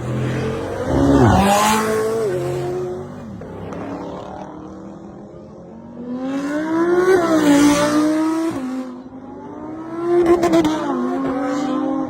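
High-performance sports car engines revving hard as cars accelerate past, three loud passes, each climbing in pitch and then dropping away.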